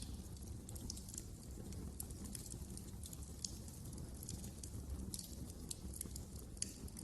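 Wood fire burning in a fireplace, a low steady rumble of flames with irregular sharp crackles and pops, one louder pop near the end.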